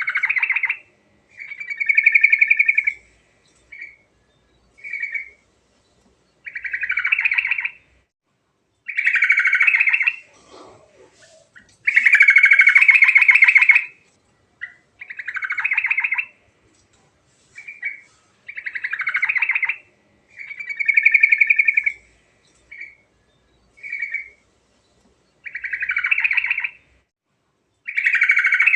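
Sooty-headed bulbul (trucuk) singing continuously: a string of song phrases, each a second or two long, with short pauses and brief single notes between them. The longest phrase comes about twelve seconds in.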